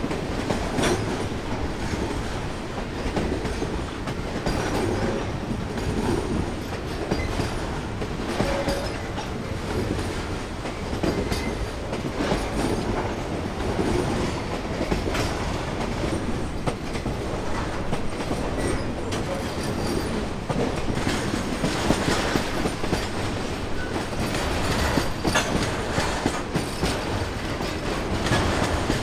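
A freight train's wagons rolling past at steady speed, the steel wheels clicking over and over on the rail joints above a continuous rumble.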